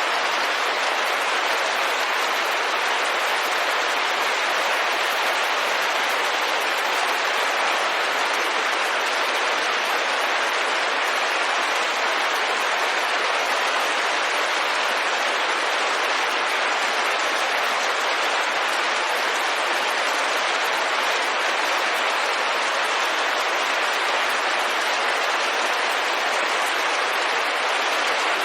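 Rain falling on a window in a steady, even patter, with no thunder or single drops standing out.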